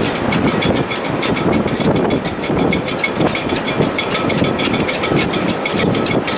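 Wind in a sailboat's shrouds and rigging in heavy weather: a steady rushing with a rapid, continuous rattle of ticks over it.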